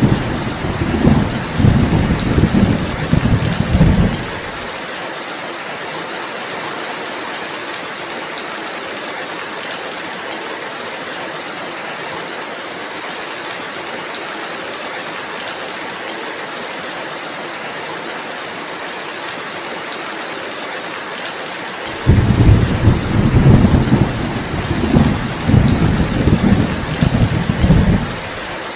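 Steady rain hiss with rolling thunder. One long rumble fades out about four seconds in, and a second one comes in about three-quarters of the way through and rolls on until just before the end.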